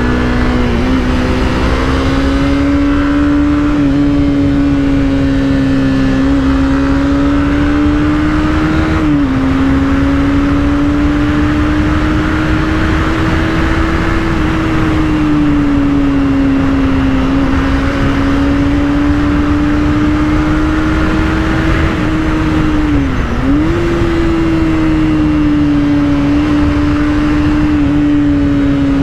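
Honda CBR300R's single-cylinder engine running at a steady cruising pace while riding, its pitch drifting gently up and down, with two brief dips in pitch about nine and twenty-three seconds in.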